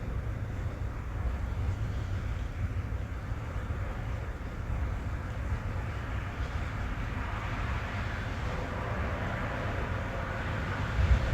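Rain on a car's roof and windows heard from inside the cabin: a steady patter over a low rumble, growing a little heavier in the second half.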